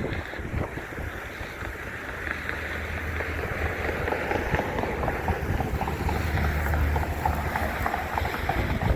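Wind buffeting the microphone over a low steady rumble that comes in about two seconds in and grows a little louder.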